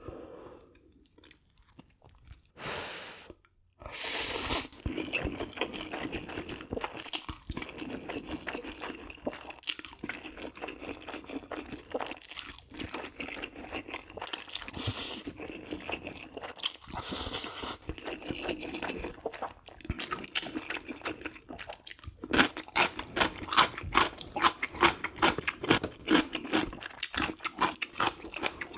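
Close-miked chewing of food, with two short noisy bursts in the first few seconds, then steady wet chewing that turns into rapid, loud crunching about 22 seconds in.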